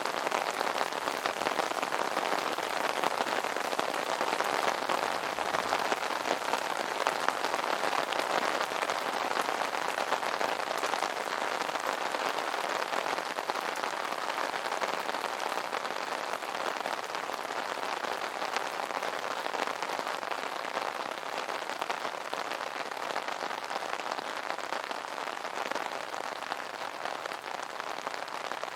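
Steady rain pattering on an umbrella canopy, a dense even patter of drops that eases slightly towards the end.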